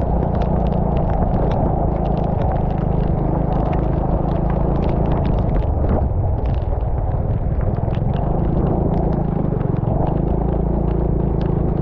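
A vehicle engine running steadily under heavy wind rumble on the camera, easing off briefly about halfway through. Many short sharp ticks fit rain striking the camera housing.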